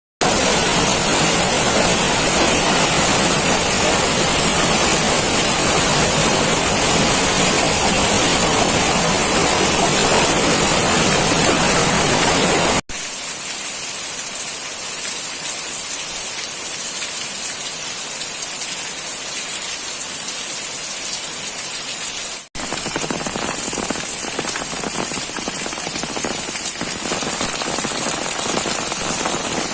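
Heavy rain pouring steadily. Twice it cuts out for an instant, and the middle stretch is softer than the rest.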